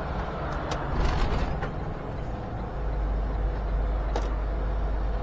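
Semi-truck cab on the highway: steady engine and road rumble with a few short rattles or clicks. The deep rumble grows louder about halfway through.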